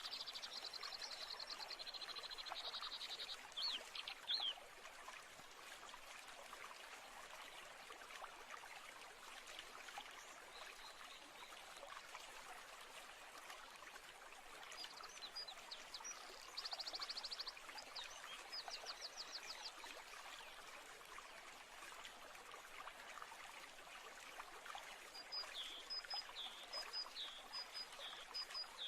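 Birds singing over a steady trickle of running water. Fast trilled phrases sound at the start and again in the middle, and a run of short repeated chirps comes near the end.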